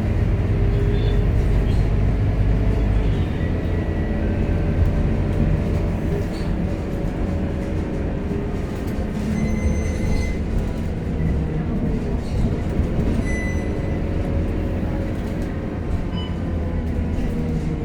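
Scania K230UB city bus's engine and drivetrain running steadily under way, a low rumble with a shifting mechanical whine. Brief high-pitched tones sound twice, about ten and thirteen seconds in.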